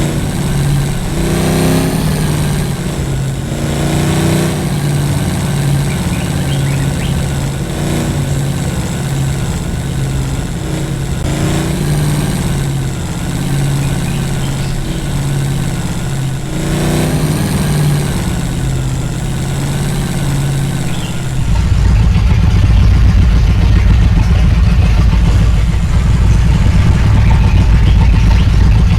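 Engine of an off-road vehicle running, its pitch rising and falling with repeated revs. About two thirds of the way through, the sound changes to a louder, deeper rumble.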